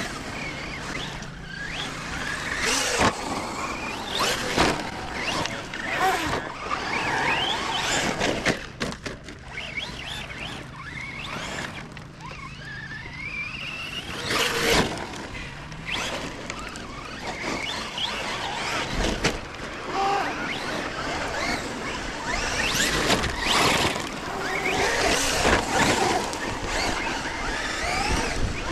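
Electric RC trucks running hard on dirt: a high motor whine rises and falls again and again as they accelerate and let off, with tyres scrabbling and throwing gravel.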